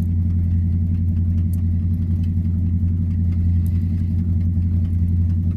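Steady, deep drone of old Chevy pickup V8 engines idling after a cold start: the 1986 C10's 305, which is quiet, under the loud exhaust of a 1979 Chevy C20.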